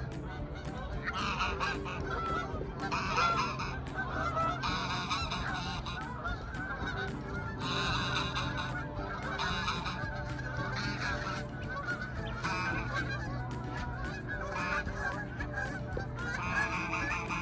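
Geese honking again and again, with calls overlapping one another, over a steady low hum.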